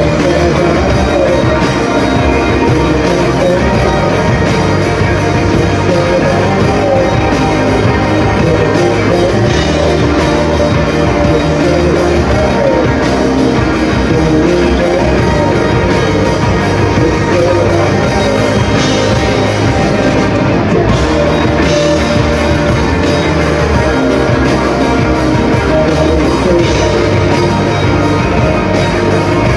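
A band playing loud rock music live.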